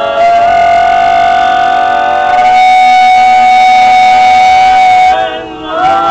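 An a cappella vocal group holding one long sung chord for about five seconds, with a higher voice coming in partway through; it breaks off briefly and a new chord begins near the end.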